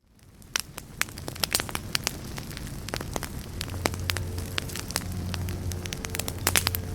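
Wood fire in a fireplace crackling, with irregular sharp pops over a low rumble of the flames, fading in from silence over the first second or two.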